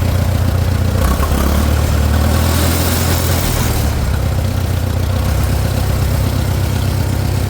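Farmall 400's four-cylinder gasoline engine idling steadily on choke, with a freshly replaced spark plug in cylinder 3, which had been getting no spark. It sounds a little better, but it will not yet run off choke, which the owner suspects is an air leak.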